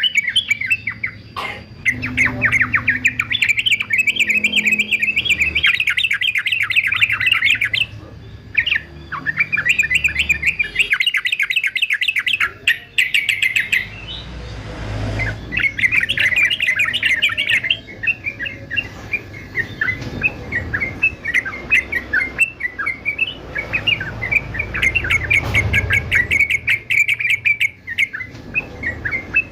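Male sooty-headed bulbul singing in rapid chattering bursts, several runs of quick notes separated by short pauses, with a brief rush of noise about halfway through.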